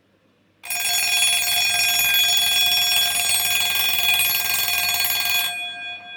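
Favre-Leuba dancing bird alarm clock's mechanical alarm bell ringing loudly. Its hammer strikes the bell rapidly for about five seconds, then stops abruptly, and the bell's ring dies away near the end.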